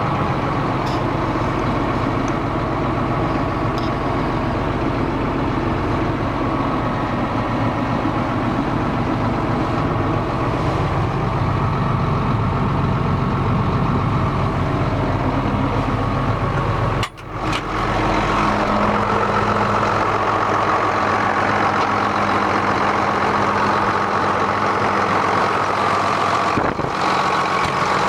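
1999 John Deere 7810 tractor's six-cylinder diesel engine running steadily at idle. The sound cuts out for a moment about two-thirds of the way through, then carries on with a slightly changed tone.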